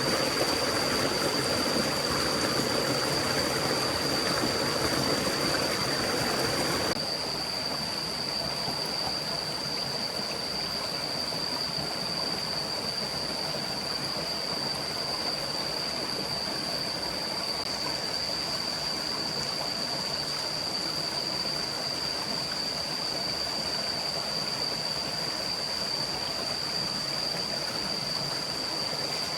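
Steady rushing of a forest stream, with a constant high-pitched whine over it. About seven seconds in, the water sound abruptly drops to a quieter, thinner rush.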